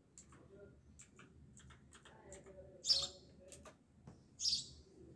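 Birds chirping in the background: two louder short, high chirps about three seconds in and again near the end, with fainter short chirps and ticks between them.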